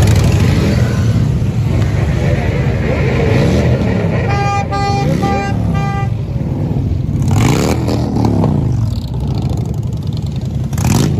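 Motorcycle engines running and being revved, pitch rising and falling repeatedly, with a vehicle horn beeping four short times about four to six seconds in.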